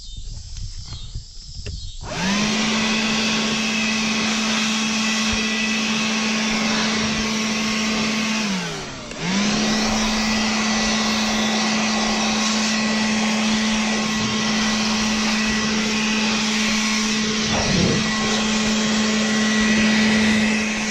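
Craftsman 24-volt cordless leaf blower running with a steady whine and rush of air. It spins up about two seconds in, winds down briefly around nine seconds, then spins straight back up and keeps running.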